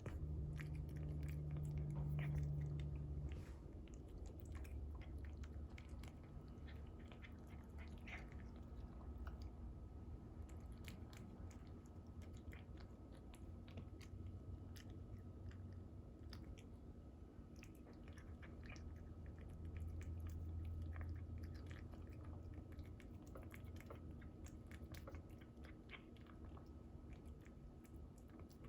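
A cat chewing and eating cooked salmon, with a run of small irregular wet clicks of its mouth working at the food. A low hum sits underneath, loudest in the first few seconds, with a faint steady whine.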